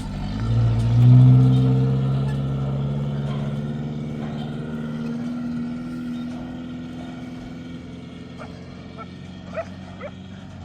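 An engine running with a steady low hum, loudest about a second in and then slowly fading. A dog yips a few times near the end.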